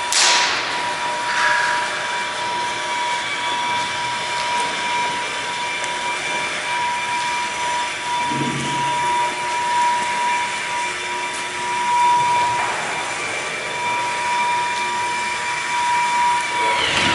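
A machine running steadily with a constant whine at one pitch over a rushing noise; the whine drops out briefly about two-thirds of the way through, then returns.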